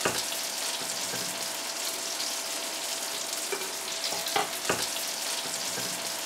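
Schnitzels frying in a pan, a steady sizzling hiss, with a couple of light knocks about four and a half seconds in.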